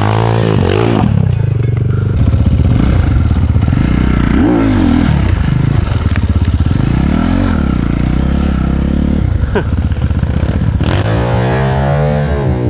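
Dirt bike engine being ridden, its pitch rising and falling several times with the throttle.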